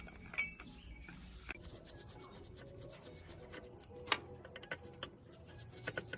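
Hand scrubbing and scraping on rusty metal parts, with several sharp clicks scattered through it.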